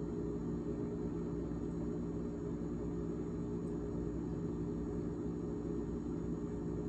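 GE GTH18XCTZRBB refrigerator fan running with a steady drone of several pitches held together, over a low rumble.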